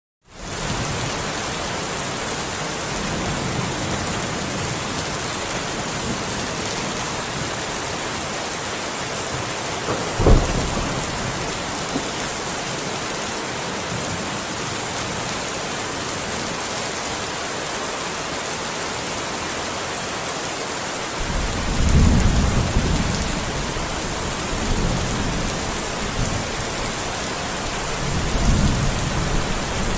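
Steady rain with thunder, fading in after a brief silent gap at the start. A sharp thunderclap comes about ten seconds in, and low rolling rumbles of thunder swell through the last third.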